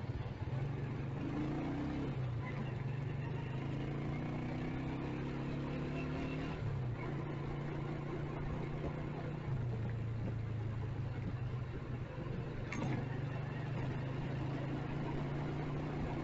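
Motorcycle engine running under the rider in city traffic, its note stepping up and down as the bike speeds up and slows. A single sharp click about three-quarters of the way through.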